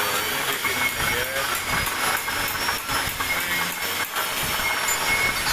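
Milling machine running and cutting metal: a steady high whine over a rough, uneven noise with irregular knocks.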